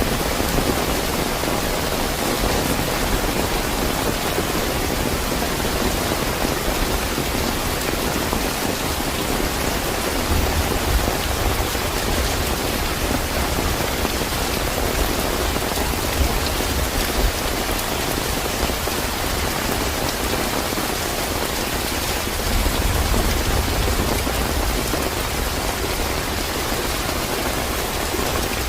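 Steady, fairly heavy rainfall, a dense even hiss of drops, with a low rumble of distant thunder swelling about a third of the way in and again near the end.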